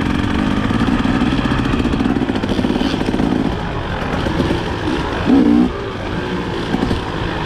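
Dirt bike engine running at low revs, steady at first, with a short louder sound about five seconds in.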